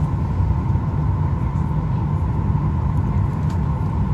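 Steady cabin noise inside a Boeing 737 MAX 8 airliner before departure: a constant low rumble with a ventilation hiss and hum that does not change.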